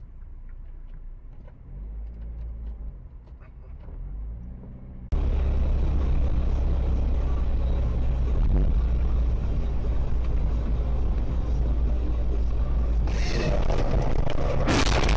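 Car engine and road rumble heard from inside a vehicle on dash-cam recordings. About five seconds in it cuts abruptly to a much louder, steady road roar, with a harsh burst of noise about two seconds before the end.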